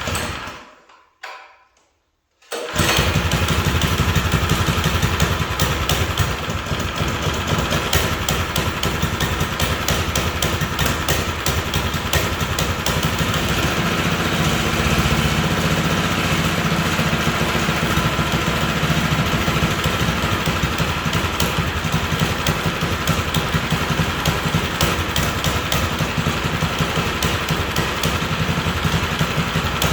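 Tillotson 212 single-cylinder four-stroke engine on a mini bike, brand new and cold on choke, catching about three seconds in and then running steadily.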